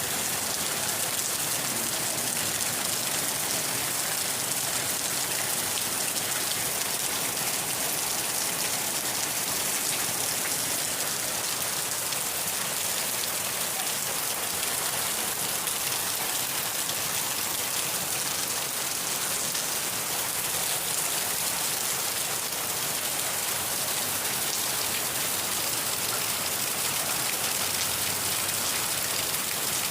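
Steady rain falling on surfaces, an even hiss of drops.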